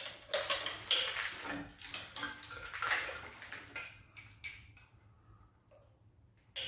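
Hard parts clinking and rattling as a Magnum V8's wiring harness and connectors are worked loose during the teardown: a quick run of sharp clicks and knocks over the first four seconds, then much quieter.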